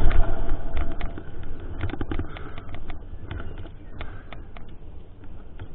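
Mountain bike rolling over a rough trail: irregular clicks and rattles from the bike and tyres over a low rumble, loudest in the first second and then quieter.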